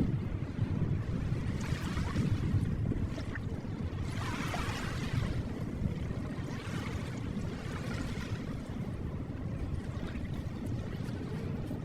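Ocean waves washing onto a shore: a steady low rumble with a hissing wash of surf that swells and ebbs every few seconds, strongest about four to five seconds in.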